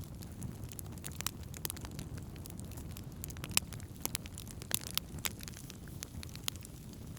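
Wood campfire burning with a steady low rumble of flames and irregular crackles and pops, a sharper pop about three and a half seconds in.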